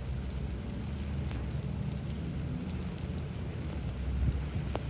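Rain falling on a city street over a steady low rumble, with a couple of sharp drip taps.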